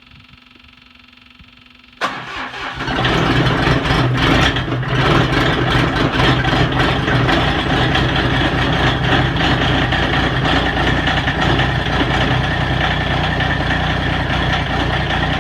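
Massey Ferguson GC1705's three-cylinder diesel engine cranked about two seconds in on a cold start after glow-plug preheating, catching within about a second and settling into a steady, loud run.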